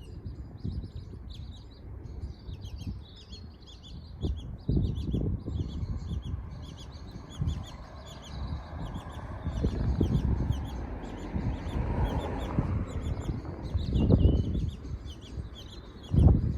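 Birds chirping, short high calls repeated rapidly and continuously, over an uneven low rumbling noise that swells a few times.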